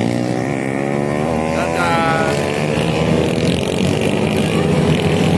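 Motorcycle engine running steadily, with people's voices over it about two seconds in.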